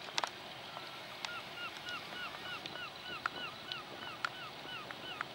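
A bird calling in a fast run of short, arching notes, about three a second, starting about a second in, with a few faint sharp clicks.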